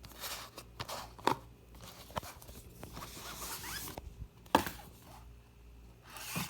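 Rustling and clicking of a smartphone's retail box being handled and opened, with a few sharp taps, the loudest about four and a half seconds in.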